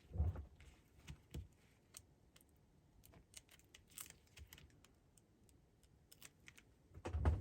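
Sparse light taps and clicks of small paper pieces being handled, set down and pressed onto a card on a work surface, with a soft thump at the start and another near the end.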